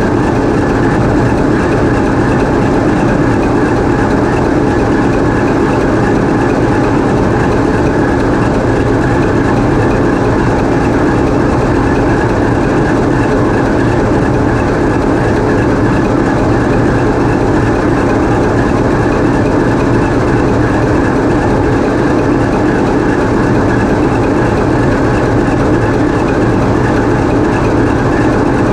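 TEP70 diesel locomotive's 16-cylinder diesel engine running steadily under power, heard close up inside the engine room. The level and pitch hold even throughout, with no change in engine speed.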